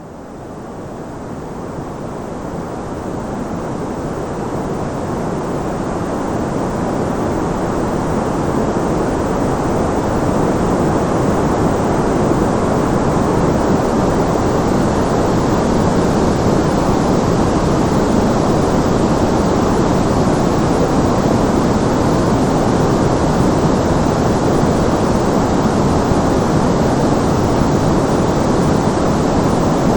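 Steady synthetic white-noise background, a rushing hiss heaviest in the low and middle range, fading in over the first several seconds and then holding even.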